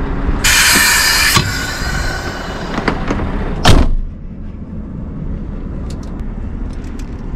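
Scania R580 truck's V8 diesel running steadily, with a loud burst of air hiss about half a second in that lasts about a second and then fades, and one loud, sharp knock a little before the four-second mark.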